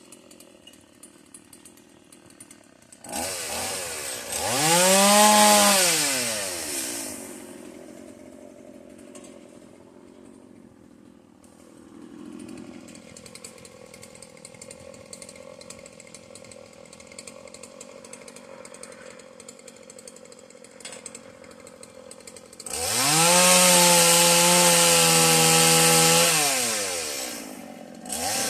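Stihl two-stroke chainsaw idling low, revved up twice to full throttle: once about three seconds in, rising and falling back within a few seconds, and again near the end, held for several seconds before dropping back to idle.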